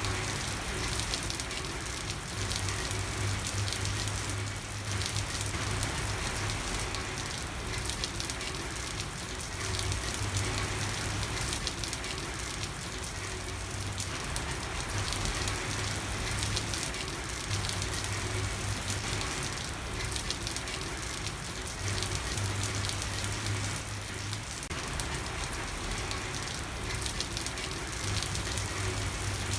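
Steady rain falling on a street, an even hiss with the fine patter of drops hitting the surface. A low hum comes and goes every few seconds underneath.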